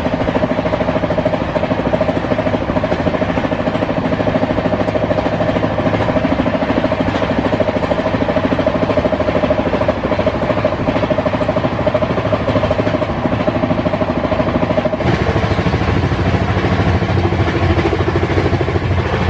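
Steady running noise of a moving passenger train, a rumble with a constant hum over it; about fifteen seconds in the higher hum drops away and the low rumble gets stronger.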